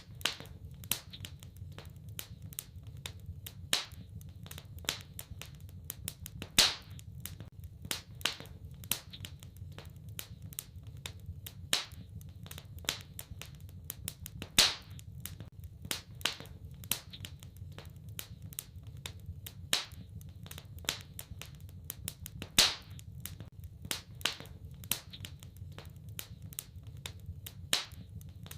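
Wood fire crackling in a fireplace: a steady run of small snaps and clicks, with a few louder pops, over a low steady rumble.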